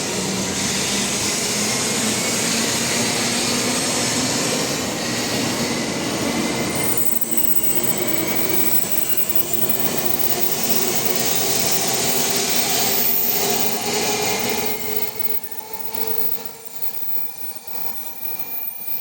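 700 series Shinkansen accelerating out of a station. Dense running and wheel-on-rail noise with traction motor tones slowly rising in pitch, fading away about fifteen seconds in.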